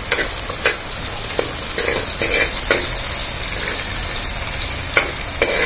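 Shallots, dried red chillies and a whole tomato sizzling in oil in a clay pot, a steady hiss. A steel ladle stirs them and gives a few sharp clicks against the pot.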